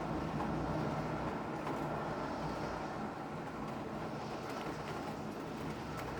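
Steady rain with a low rumble underneath and a few faint drop ticks near the end.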